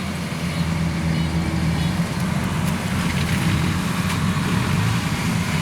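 Farm machinery's diesel engines running steadily, a low, even engine hum with mechanical noise over it.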